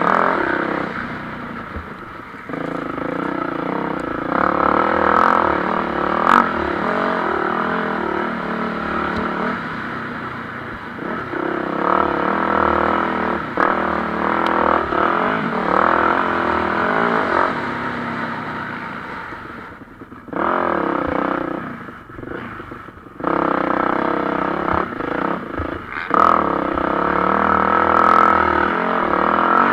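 Motocross bikes racing, their engines revving up and falling off again and again as they accelerate and shift. Several bikes overlap. The sound drops briefly about two-thirds of the way through, then builds again.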